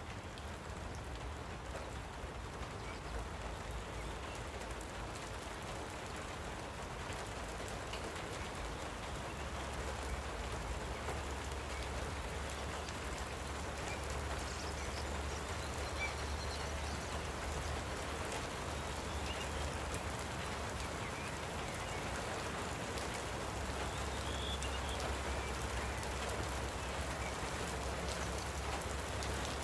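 Light rain falling as a steady, even patter, growing slightly louder, with a few faint bird chirps.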